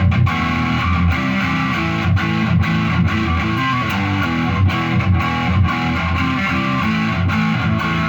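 Electric guitar, a Mexican-made Fender Telecaster with Seymour Duncan Hot Rails pickups, played through an amp with distortion on, selected to the neck pickup. It plays a riff of picked, sustained distorted notes and chords that changes pitch every fraction of a second.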